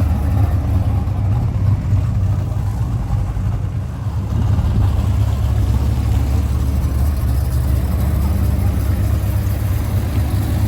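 Car engine idling with a steady low rumble, easing off slightly a few seconds in.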